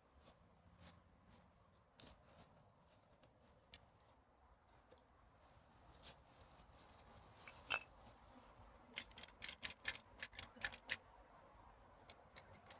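Dry crackling and rustling of litter being picked up from the forest floor. Scattered short crinkles and clicks run through it, then a quick run of about ten crackles over two seconds near the end.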